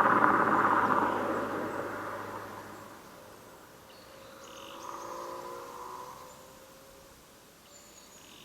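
Subaru Impreza's flat-four engine and aftermarket exhaust pulling away, its sound fading over the first few seconds, then heard again faintly about five seconds in as the car climbs the road farther off, its pitch shifting as it goes.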